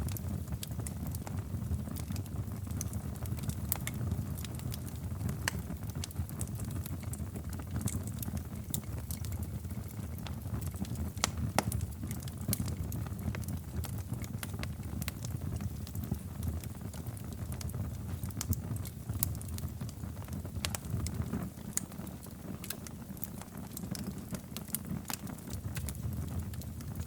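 Wood fire burning in a fireplace: a steady low rumble of flames with frequent irregular crackles and pops, one sharper pop about halfway through.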